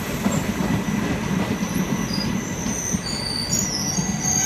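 Steady rumble and wheel noise of a diesel-electric multiple unit running close alongside on the adjacent track, with high-pitched wheel squeals setting in about three seconds in.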